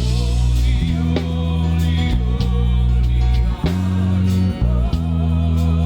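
Gospel worship music: a band playing under voices singing, over deep held bass notes that change every second or so.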